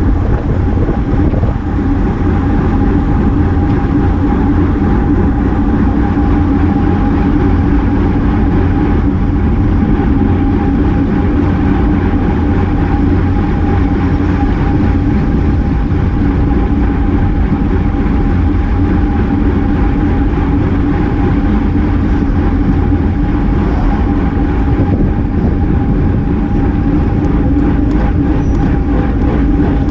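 Steady rush of wind and road noise from a bicycle racing at speed, with a heavy low rumble and a constant hum.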